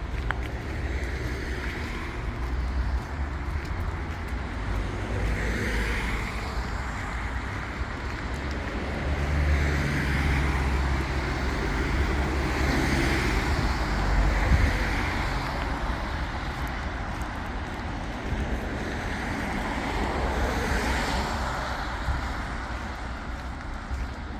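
City street traffic: cars passing by in a continuous noisy wash with a heavy low rumble, swelling louder in the middle as vehicles go past.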